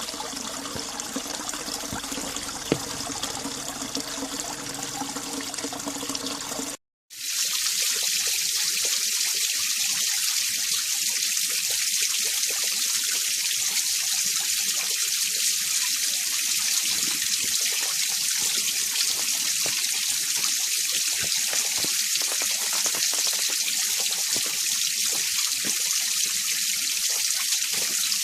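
Winter mountain stream running over rocks, a steady rush of water. It drops out for a moment about seven seconds in and comes back as a brighter, higher-pitched rush.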